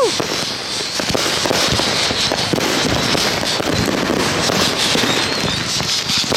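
Fireworks going off in a dense, continuous run of crackles and pops.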